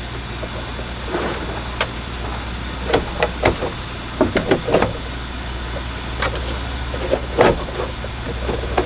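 Car engine idling steadily, with scattered clicks and knocks from parts being handled, most of them between about three and five seconds in and one sharper knock near the end.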